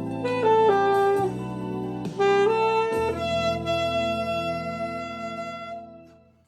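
Saxophone playing a slow, smooth-jazz closing phrase over a sustained accompaniment chord. It ends on one long held note that fades away to silence near the end.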